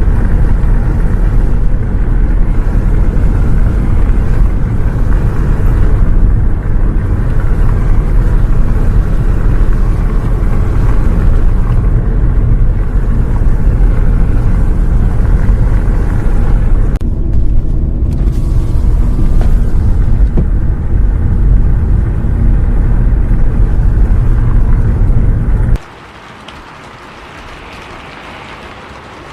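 Steady low rumble of a bus travelling in the rain, heard from inside. About 26 seconds in it cuts off suddenly, leaving a much quieter steady hiss of rain.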